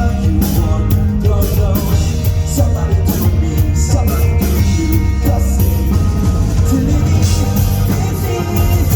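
Live rock band music: drums, bass and guitars playing loud and steady through a concert sound system.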